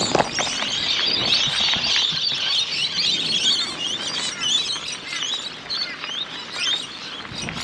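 Morning chorus of many birds calling at once: a dense mass of short, high chirps. A short knock sounds right at the start.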